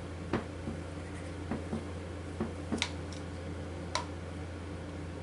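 Scattered light clicks and taps from handling plastic paint cups, about eight in all, over a steady low hum.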